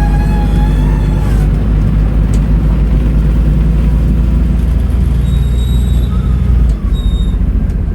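Scania N310UA articulated city bus's diesel engine running under way, a steady low drone. It changes and dips briefly about seven seconds in, with a few thin high tones above it in the second half.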